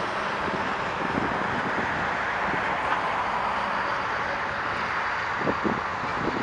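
Steady rushing noise of passing road traffic, even in level throughout.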